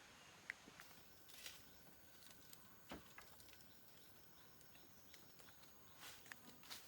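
Near silence with faint scattered clicks and short rustles, and one soft knock about three seconds in.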